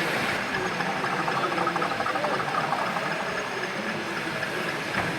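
Steady hiss-like hall ambience at a model railway exhibition, with a patch of fine rapid ticking about a second in.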